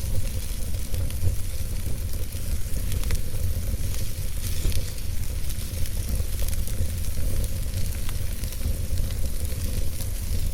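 Burning logs in a fireplace crackling, with scattered small pops and snaps over a steady low rumble.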